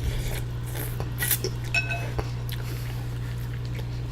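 A utensil clinking against a soup bowl a few times, light sharp clinks about a second to two and a half seconds in, one ringing briefly, over a steady low hum.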